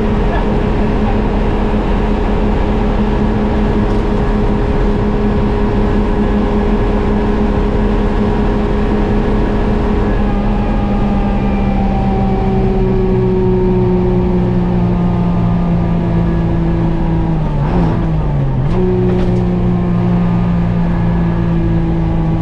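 GMC Crackerbox semi's two-stroke Detroit Diesel engine running under way. Its pitch steps down a little about halfway through, sinks slowly, then drops sharply and comes back up shortly before the end.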